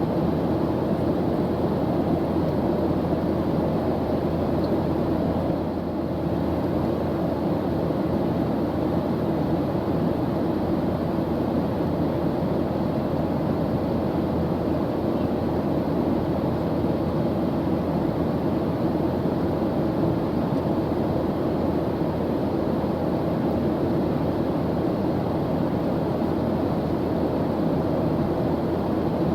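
Airplane engine drone in flight: a steady, unbroken rumble and hiss, heaviest in the low and middle range.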